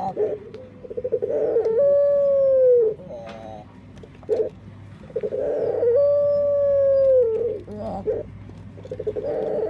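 Turtle dove (burung puter) cooing an unusual song. A quick pulsing run leads into one long held note that drops off at its end, followed by a few short notes, and the phrase repeats about every four seconds. The voice is so unlike other doves' that the owner wonders whether it is a defect.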